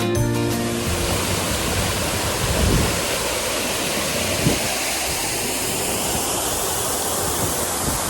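Steady rush of a waterfall, an even hiss of falling water, with background music fading out in the first second.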